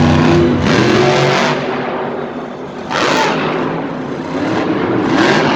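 Monster truck's supercharged V8 revving hard in repeated surges, its pitch climbing and falling as the throttle is blipped, with about three loud bursts.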